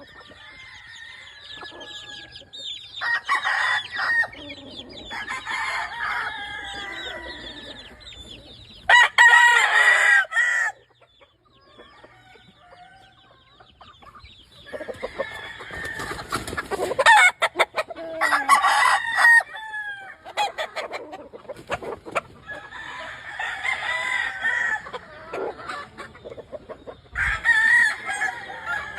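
Gamefowl roosters crowing again and again, a new crow every few seconds and the loudest about nine seconds in, with clucking between the crows.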